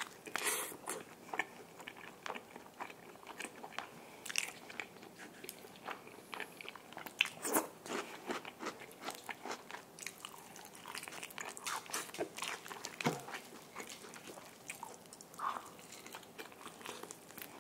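Close-miked eating of crispy yangnyeom (sweet-spicy sauced) fried chicken: bites into the coated crust and chewing, with many small crunches and crackles.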